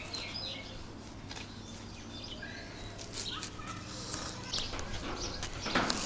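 Birds chirping in short, scattered calls over faint outdoor background noise, with a brief rustle near the end.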